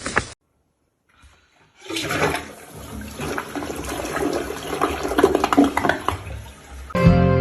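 Water rushing for about five seconds, starting about two seconds in after a short silence.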